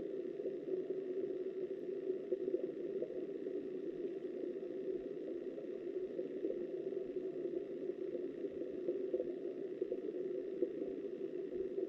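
Steady, muffled rush of flowing river water heard underwater.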